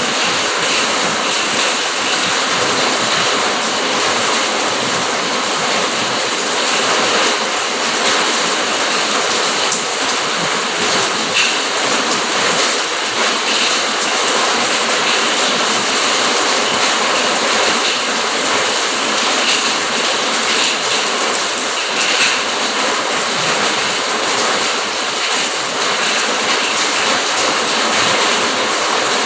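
Steady rain falling: an even, unbroken hiss with scattered sharper drop hits.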